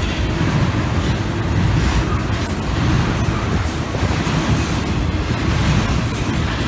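A train rolling past, its wheels making a steady rumble on the rails.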